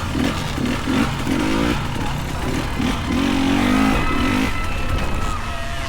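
Dirt bike engine revving up and down in quick throttle bursts through tight, bumpy single track, over a low rumble. A thin high whine joins it briefly in the middle.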